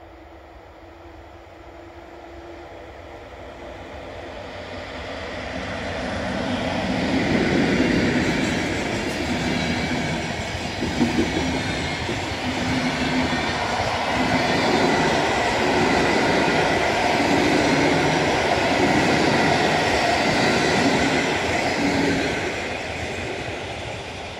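EP07 electric locomotive hauling a passenger train, approaching and passing at speed. The sound builds from faint to loud over the first seven seconds or so, holds as a steady noise of wheels on rail while the coaches go by, and fades in the last couple of seconds.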